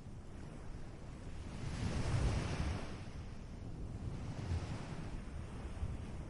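Ocean waves washing onto a beach: one wave swells and breaks about two seconds in, then hisses back, with a low wind rumble on the microphone.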